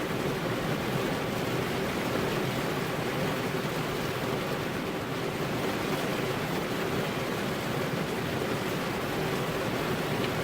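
Steady rainfall: an even, unbroken hiss with no distinct drops or thunder.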